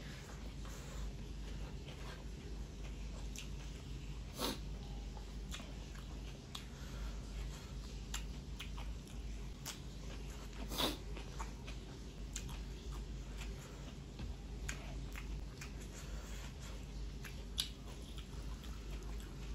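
Close-miked chewing and mouth clicks of a man eating rice and curry with his hand, over a steady low hum. Sharper clicks stand out about four and eleven seconds in, and again near the end.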